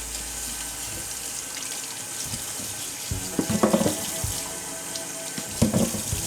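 Kitchen tap running into a sink, with two short spells of clattering as things are handled under the water, about halfway through and near the end.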